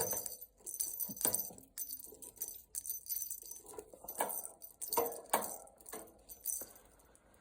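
Irregular sharp metallic clinks and jingles, a few a second, from an agitated budgerigar pecking and rattling at metal. They thin out and grow fainter near the end.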